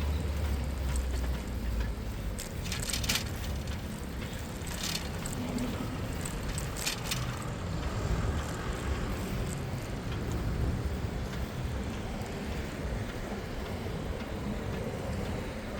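Riding a bicycle through city traffic: a steady rumble of tyres, wind and passing vehicles, with a few short sharp clicks or rattles about three, five and seven seconds in.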